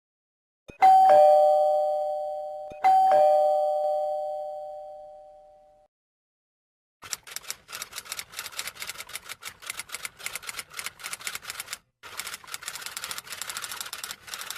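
Two-tone doorbell chime rung twice, each ring fading away over a few seconds. After a pause, a fast run of typing clicks, with a brief break near the end.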